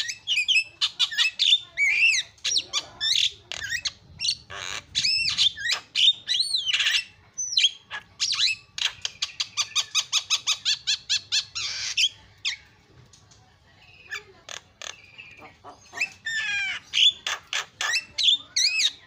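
Black-winged myna (jalak kebo) singing a loud, varied song of whistles, squawks and chatter. In the middle comes a fast run of repeated notes, then a short lull, then more calls near the end.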